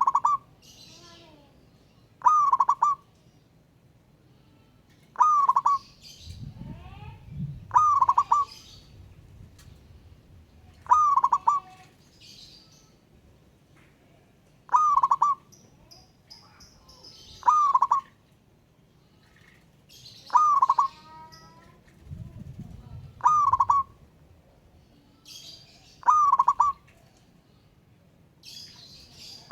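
Wild zebra dove (perkutut) cooing its short, warbled call over and over, one call about every three seconds, calling out to a rival. Fainter high chirps of other small birds come between the calls.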